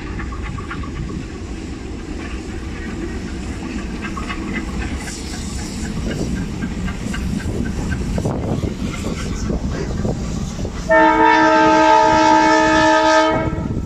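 Diesel locomotives pulling a train out of a station, the engines rumbling and the wheels clacking on the rails. About eleven seconds in, the locomotive horn sounds one long blast of about two seconds, several tones at once.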